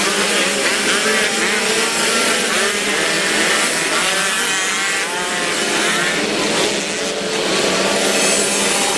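Several Derbi Variant 49 cc two-stroke moped engines running and revving together, their pitches rising and falling as they overlap.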